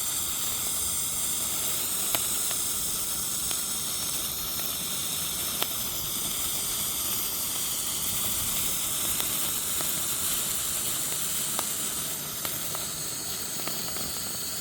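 Small novelty firework burning with a steady hiss, with a few sharp pops here and there.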